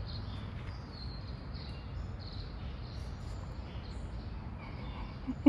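A bird chirping over and over in short, high calls, about two a second, over a low steady rumble. A brief knock comes right at the end.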